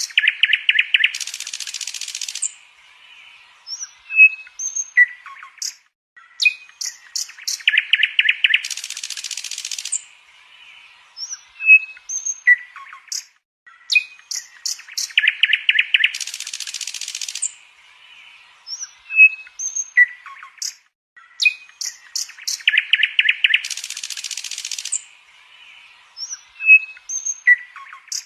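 Small birds chirping and calling: sharp chirps, short whistles, a rapid trill and a buzzy rasp, the same stretch of birdsong repeating about every seven and a half seconds as a loop.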